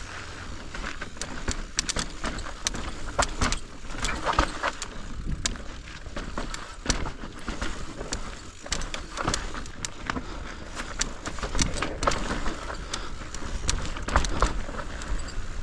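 Mountain bike clattering down a rough, steep trail: rapid, irregular knocks and rattles from the bike and its chain as the tyres hit rocks and roots, over a low rumble.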